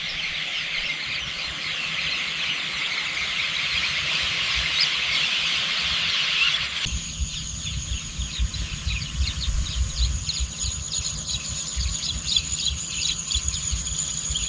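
Dense chorus of birds chirping outdoors. About halfway through it changes abruptly to a faster run of chirps over a steady high whine, with a low rumble underneath.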